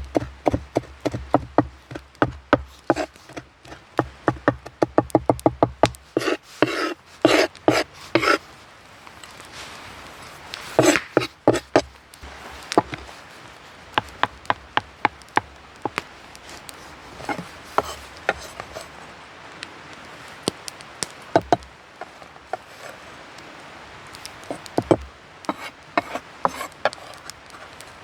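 Fast, even strokes of a tool working wood, about four a second for the first six seconds, then a few heavier strokes and scattered knocks and clicks.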